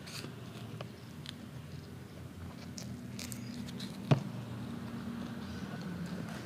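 Eating sounds from a mukbang of ayam geprek (smashed fried chicken) and rice: small wet mouth clicks and smacks while chewing. There is one sharp knock about four seconds in, over a low steady hum.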